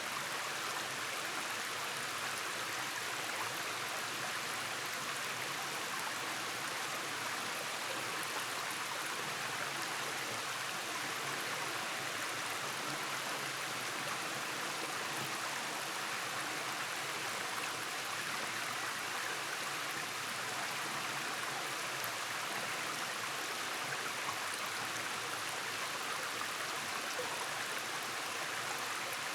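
Rainforest stream running over small cascades: a steady, even rush of flowing water.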